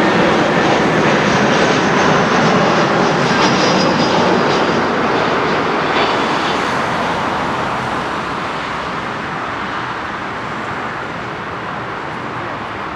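Airbus A320-200 jet airliner's engines roaring as it passes, a faint high whine sliding slightly down in pitch early on; after about five seconds the roar steadily fades as the aircraft moves away.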